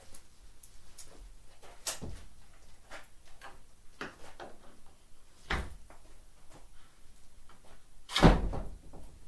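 Knocks and clatter of tools and parts being handled during the dismantling of a car trailer, with three louder thumps, the loudest near the end.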